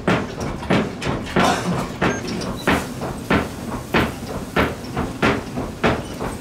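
Hand hammer striking hot iron on an anvil: a steady run of blows about every half second or so, with a brief pause about two seconds in.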